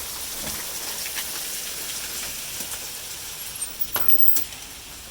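Steady rain falling, with a few sharp taps standing out about four seconds in.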